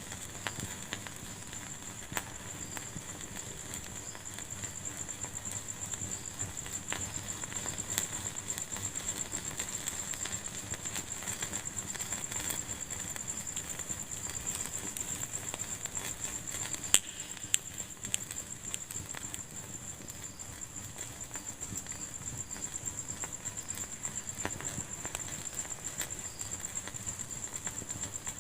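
Wood fire in a fireplace crackling steadily, with a thin continuous hiss and scattered small ticks, and a few sharper pops about a third of the way in and again near the middle.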